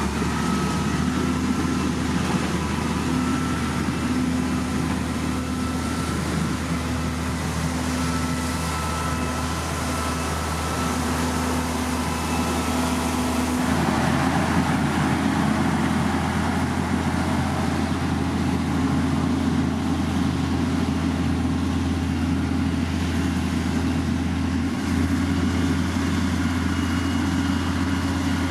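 Diesel engines of heavy earthmoving machines running steadily, with a steady low hum. About halfway through the sound changes suddenly and grows noisier, as if another machine or a different part of the work comes in.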